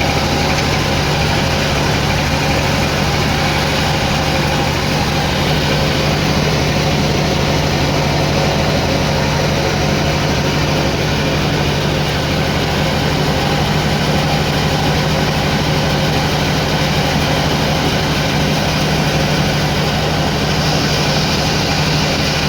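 Sawmill machinery running steadily, a constant engine-like hum with a steady low tone.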